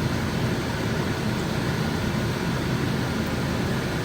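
Steady whooshing noise of a fan running.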